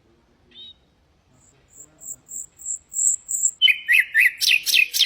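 Nightingale singing: a brief chirp, then a run of high piping notes repeated and growing louder, followed near the end by a fast burst of lower, sweeping notes.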